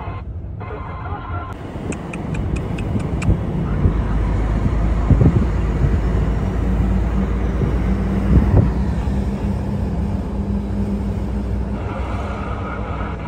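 Heavy truck's engine running steadily while driving, heard from the cab. There is a short run of light ticks about two seconds in, and two heavier thumps about five and eight and a half seconds in.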